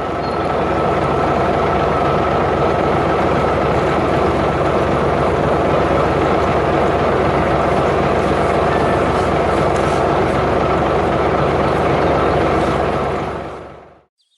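Steady motor drone, like a vehicle engine running, that fades out near the end.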